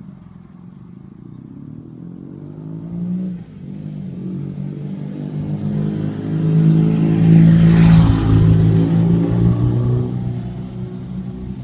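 BMW R nineT Racer's boxer twin running through a GPR aftermarket exhaust. It revs up briefly about three seconds in, then grows steadily louder to a peak about two-thirds of the way through and fades away near the end.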